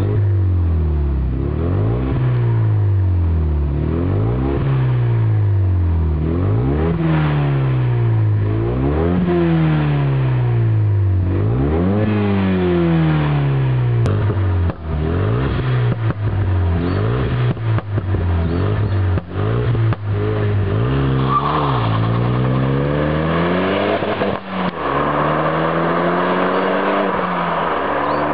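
Renault Megane RS250's 2.0-litre turbo four-cylinder heard through a K-Tec Racing 3-inch stainless cat-back exhaust, revved up and down over and over. Early on each rise and fall takes about two seconds; later the revs are held longer.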